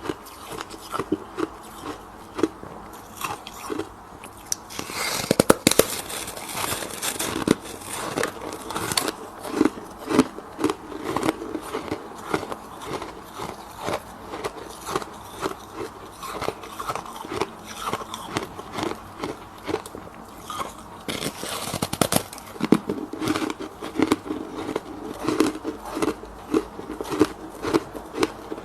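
Freezer frost being bitten and chewed: a steady run of crisp crunches, with louder, denser bursts of crunching about five seconds in and again at about twenty-two seconds.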